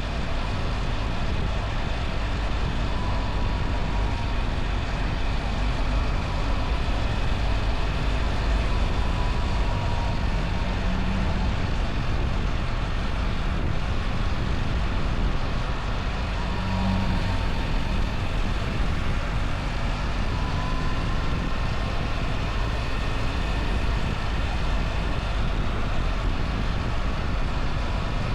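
BMW R1300 GS motorcycle's boxer twin engine running at a steady pace while riding, with the loudness holding even and only slight shifts in engine pitch.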